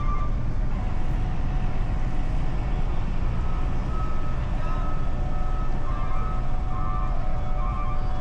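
A steady low engine rumble with faint high tones coming and going.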